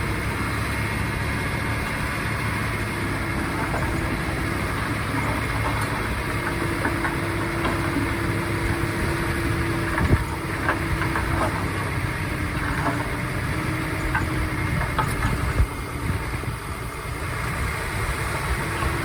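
Komatsu D51PX bulldozer's diesel engine running steadily, with a few sharp metal clanks: the loudest about halfway through, another a few seconds later.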